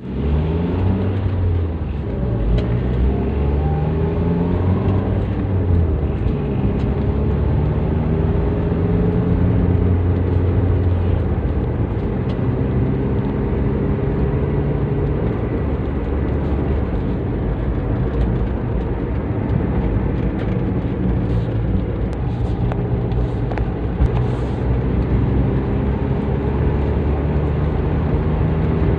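Toyota Avanza's inline-four engine running through a custom exhaust while driving: a low, steady drone whose pitch climbs over the first few seconds as the car accelerates, then rises and falls with speed and gear changes.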